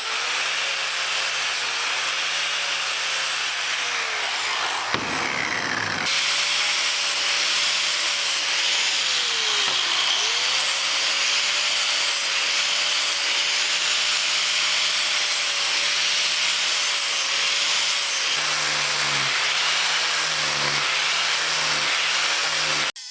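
Handheld power grinder with an abrasive disc grinding the steel of an axe head, the motor's pitch sagging and recovering as the disc is pressed into the metal.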